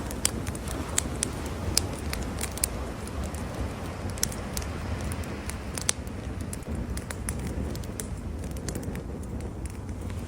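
Wood campfire crackling, with sharp irregular pops over a steady low rumble.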